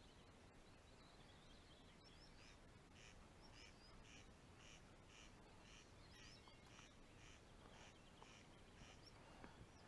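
Faint outdoor birdsong: one bird repeats the same short note about twice a second, starting a couple of seconds in and stopping near the end, while other birds chirp now and then.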